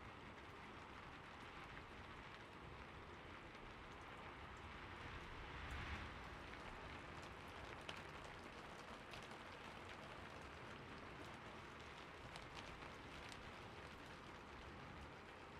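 Faint, steady splash of fountain water falling onto water and stone, with scattered single drips and a slight swell about six seconds in.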